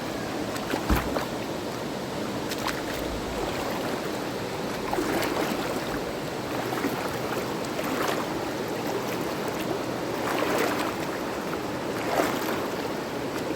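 Steady rush of a river's flowing water, with short sharp sounds now and then over it.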